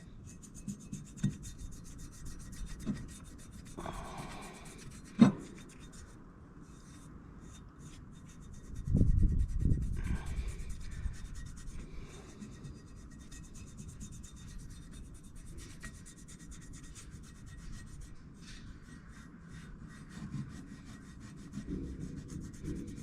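Hands working anti-seize compound onto wood chipper blade bolts: light rubbing with scattered small clicks. There is one sharp click about five seconds in and a low thump and rumble around nine seconds.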